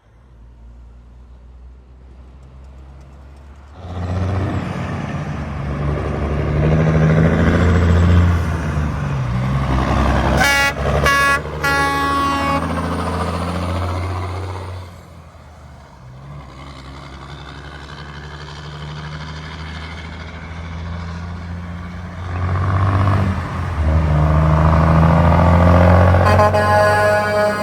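Heavy trucks passing on the road, their engine drone building and fading. The first gives a few short horn blasts about halfway through. A second truck approaches and sounds its horn in quick blasts near the end.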